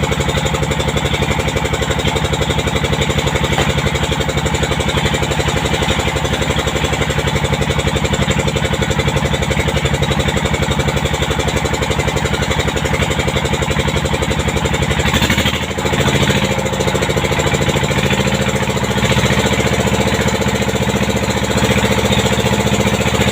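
Pompong motorboat engine running steadily with an even, fast pulse; about fifteen seconds in it dips briefly, then runs on at a slightly changed note.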